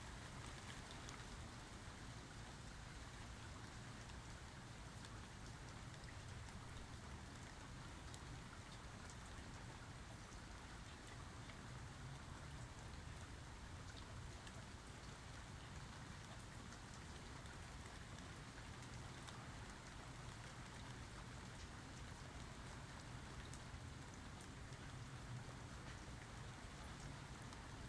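Steady rain falling, with the ticks of individual drops scattered through an even hiss.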